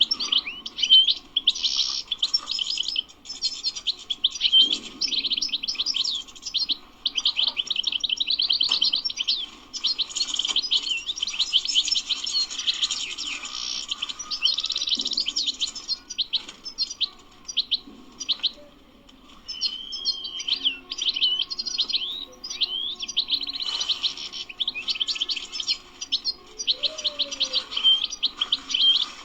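European goldfinch singing: a fast, twittering run of high chirps and short trills, with a brief pause about two-thirds of the way through.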